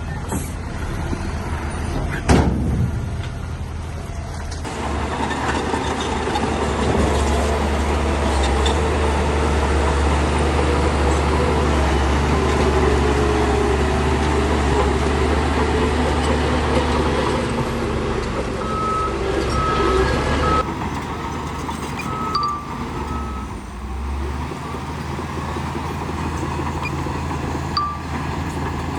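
Heavy diesel earthmoving machinery running under load, with a loud knock about two seconds in. The engine grows louder a few seconds later and holds steady. Near the end come short, high, repeated reversing-alarm beeps.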